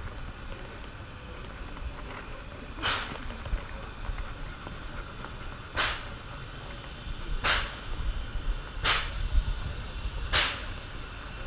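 Steam locomotive exhaust chuffing slowly, single sharp beats whose spacing shortens from about three seconds to about a second and a half as the train gets under way, over a steady low rumble.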